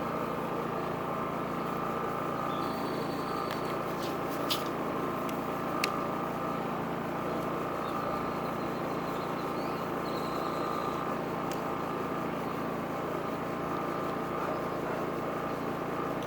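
Champion 4650 inverter generator's single-cylinder engine running steadily with eco mode off. A couple of sharp clicks come about four and six seconds in.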